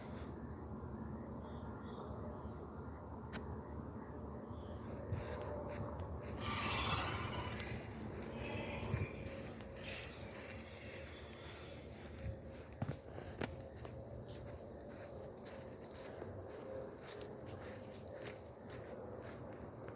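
Steady high-pitched chirring of insects, such as crickets, running throughout. A brief rustle comes about a third of the way through, and a few faint knocks come later.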